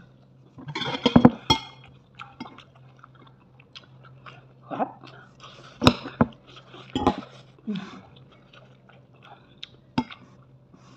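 A person chewing food, with a spoon and fork clicking and scraping on a ceramic plate. The loudest moment is a quick cluster of clicks about a second in, and there are sharp single clinks near the middle and near the end.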